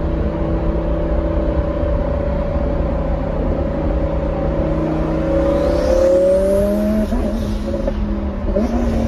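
Twin-turbo Lamborghini Huracán's V10 engine heard from inside the cabin, running at a steady pitch, then rising in pitch as the car accelerates about five seconds in, and holding steady again near the end.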